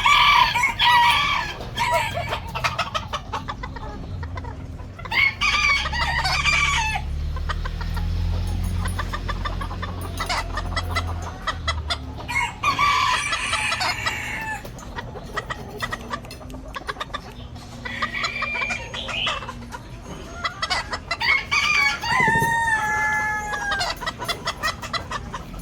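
Ornamental chickens calling: roosters crow several times, with clucking between the crows.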